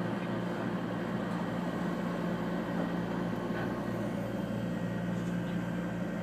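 Seibu 4000 series electric train heard from inside the passenger car: steady running noise with a low, even hum.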